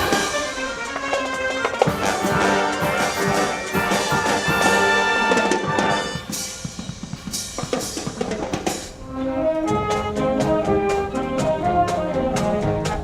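Brass band music: trumpets and trombones playing with drum kit and percussion. It thins out about six seconds in, dips briefly near nine seconds, then comes back with a steady beat.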